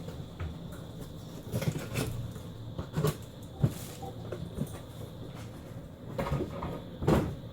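Packing materials and a cardboard box being handled and put away: a series of irregular knocks and clunks with rustling in between.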